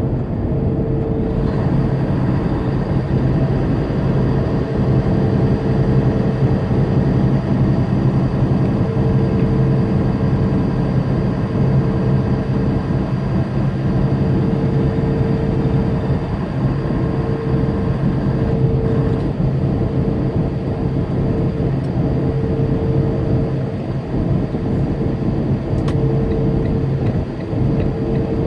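Tractor-trailer cruising on the interstate: a steady drone of engine and tyre noise with a constant low hum, heard from inside the cab.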